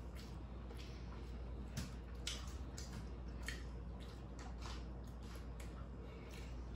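People chewing and biting food, with soft wet smacks and small clicks coming at an irregular pace. A steady low hum runs underneath.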